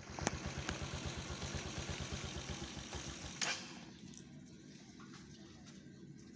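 Small engine running with an even low putter that fades and stops a little over three seconds in, followed by a single click.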